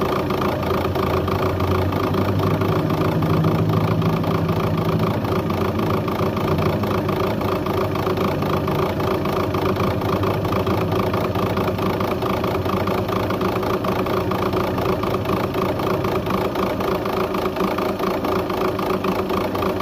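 Volkswagen Touran's TDI diesel engine idling cold with an unstable idle: the engine's low note wavers and swells a little between about two and six seconds in, over a steady diesel clatter.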